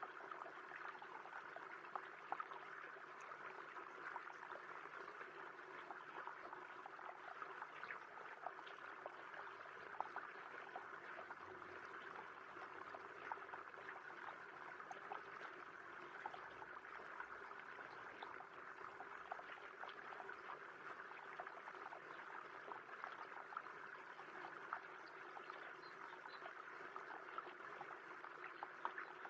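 Faint, steady rain pattering, with many small drip ticks throughout.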